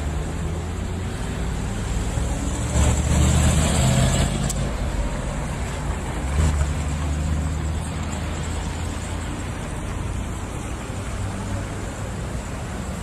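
Steady road and engine rumble of a moving vehicle, swelling louder about three seconds in and ending in a sharp click, with another brief swell a few seconds later.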